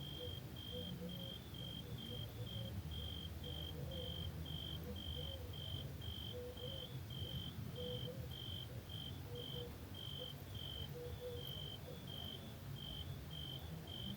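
Cricket chirping steadily, about three short high-pitched chirps a second, over a low steady rumble, with a fainter, lower pulsing call in the background.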